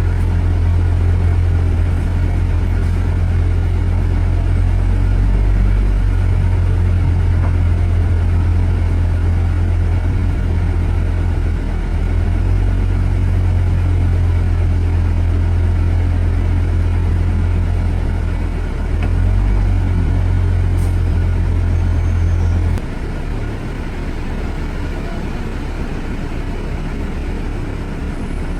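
Steady low rumble of motor vehicle and road noise on a city street, easing off noticeably about 23 seconds in.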